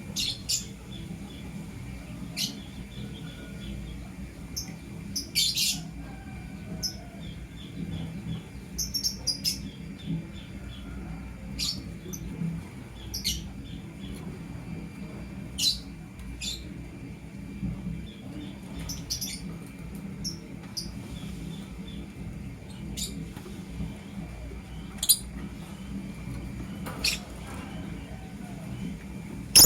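Lovebirds chirping: short, sharp, high chirps every second or two, over a steady low hum.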